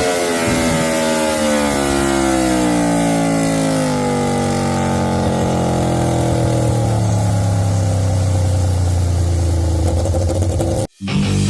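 Aprilia Tuono V4 1100's V4 engine through an SC Project GP22 slip-on exhaust, winding down on a chassis dyno after a full-throttle pull, its pitch falling steadily as the revs drop. The sound cuts off abruptly just before the end.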